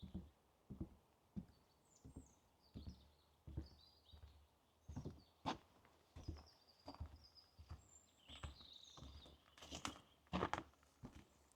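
Footsteps walking at an even pace along a forest path, a soft thud about every 0.7 seconds, with a couple of sharper, crunchier steps near the end. Small birds chirp in the background.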